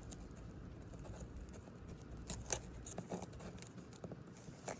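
A few scattered light clicks and scratches, a handful over several seconds, over a low steady room background.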